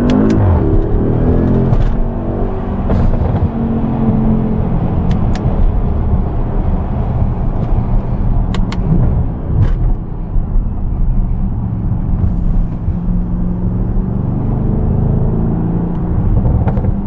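Audi S7's twin-turbo engine running while driving, a steady low drone with road noise; its pitch shifts in the first second or so. A few short sharp clicks sound here and there.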